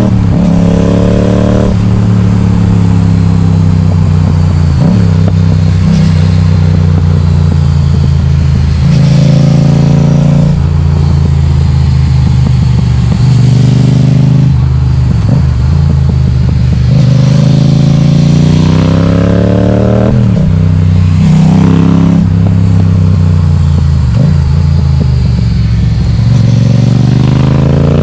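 Yamaha XSR700's 689 cc parallel-twin engine through an Akrapovic exhaust with the baffle removed, loud, repeatedly accelerating with a rising note and then dropping in pitch at shifts or off-throttle, about half a dozen times. A few short sharp cracks come in between.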